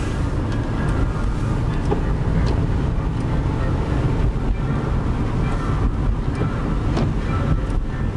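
Storm wind buffeting the microphone: a loud, even low rumble with a few faint ticks.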